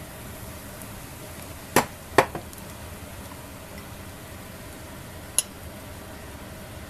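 Two sharp knocks about half a second apart and a lighter click a few seconds later, hard objects striking each other over a steady low hiss.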